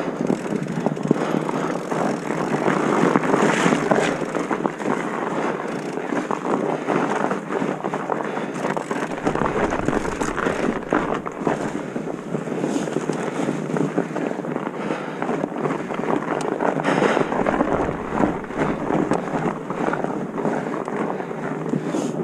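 Continuous wind buffeting on the microphone with constant irregular rattling and crunching, and deeper rumbles twice, about nine and seventeen seconds in.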